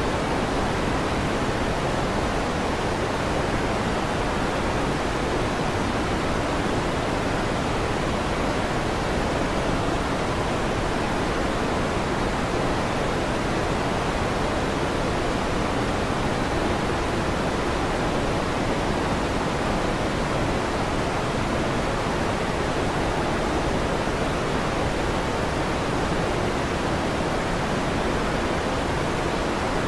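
Electric fan running with a steady, even whooshing noise that does not change.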